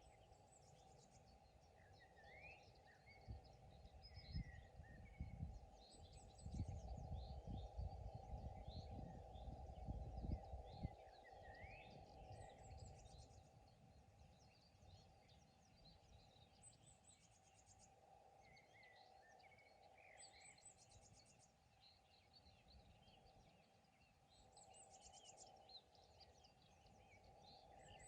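Faint outdoor chorus of several small songbirds chirping and trilling, with short rising chirps and rapid trills overlapping throughout. A low rumble comes and goes in the first half.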